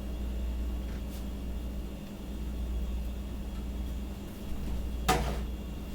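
A steady low hum, with one sharp clack about five seconds in.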